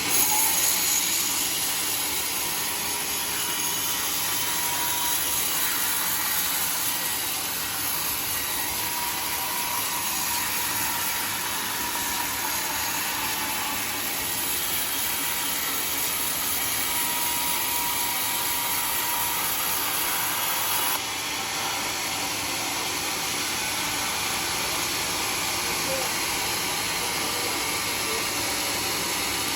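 A sawmill saw cutting a teak log, a steady even noise with a faint whine; the highest part of the sound drops a little about two-thirds of the way through.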